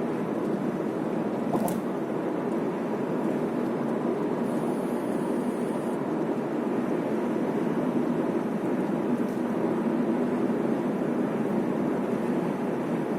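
Steady road and tyre noise inside a moving car's cabin, with the engine running under it and a single faint click a couple of seconds in.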